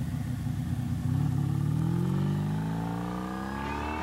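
Motorcycle engine accelerating, its pitch rising steadily from about a second in, over a steady lower engine drone.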